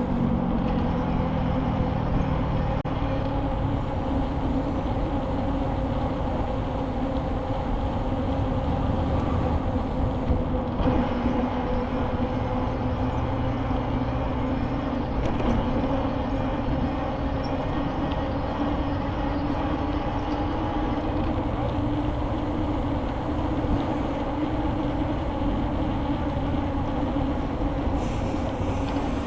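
Steady riding noise from a bicycle in motion: a continuous low rumble with a constant hum from the spinning tyres, holding an even level throughout.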